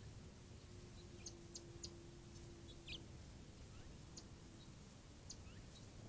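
Faint, short, high-pitched bird chirps, about six scattered through, the loudest a quick downward slide about halfway, over a faint low steady hum.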